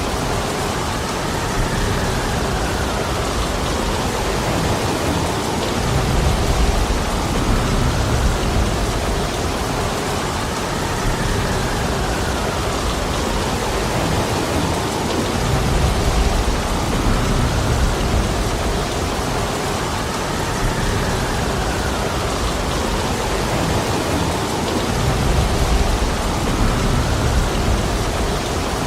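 Heavy rain pouring steadily, with low rumbling swells every few seconds.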